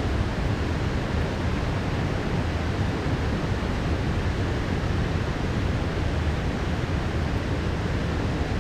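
Heavy downpour of rain, a steady, even hiss with a strong low rumble underneath.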